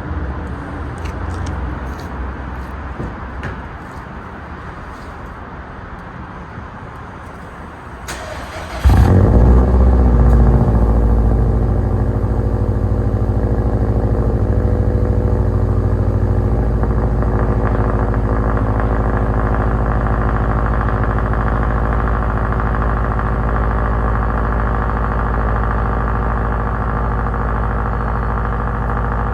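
Subaru WRX STI's turbocharged 2.5-litre flat-four, breathing through a Borla cat-back exhaust, cold-starting. A low rumble comes first; about eight seconds in the starter cranks briefly, then the engine catches suddenly with a loud flare and settles into a steady cold idle.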